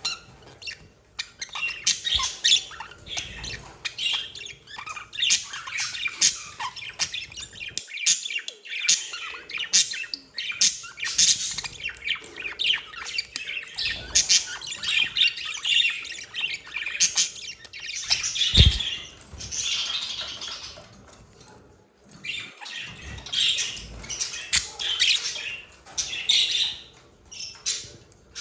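Budgerigars chirping and chattering in a dense run of short, high calls, with brief lulls about a third of the way in and again near the three-quarter mark. A single low thump stands out about two-thirds of the way through.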